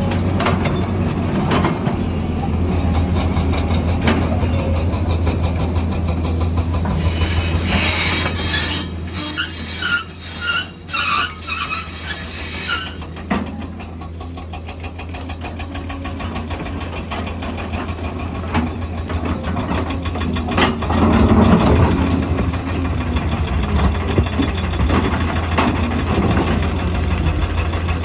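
A heavy diesel engine, typical of an excavator, running steadily, with scattered sharp knocks. Partway in there are several seconds of rattling, scraping clatter.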